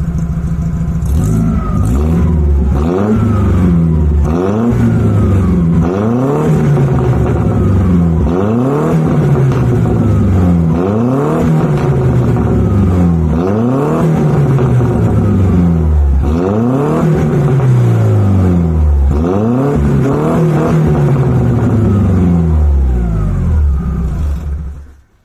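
GAZ-21 Volga engine with a new exhaust, revved again and again while standing: about a dozen blips of the throttle, each rising fast and falling back toward idle, then the engine is shut off near the end.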